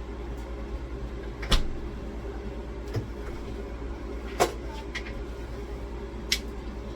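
Sharp knocks and clacks of items and containers being set onto and moved around refrigerator shelves: four separate hits over a steady low hum, the loudest about a second and a half in.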